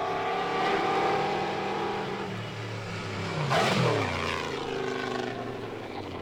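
Mercedes-Benz Grand Prix racing car engine running at speed, passing by about three and a half seconds in with a sharp rise in loudness and a falling pitch.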